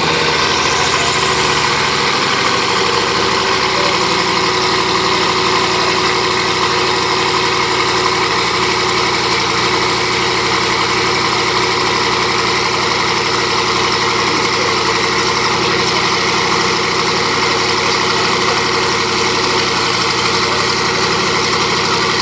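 Bugatti Veyron's quad-turbocharged 8.0-litre W16 engine idling steadily and loudly, with no revving.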